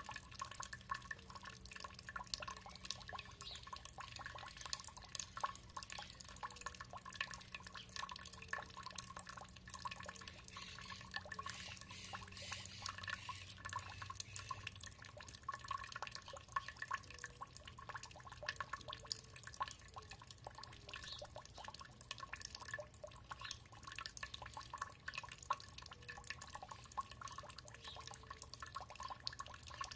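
Water trickling and dripping steadily, a dense patter of small drips and splashes.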